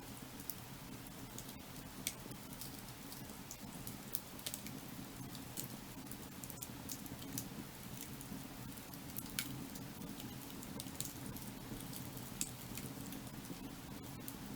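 Wood fire burning: irregular sharp crackles and pops of the burning logs over a steady low rushing sound.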